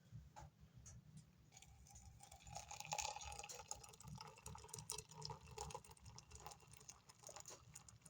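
Boiling water poured from a kettle into a cup, a faint trickling splash that starts about a second and a half in and runs for several seconds.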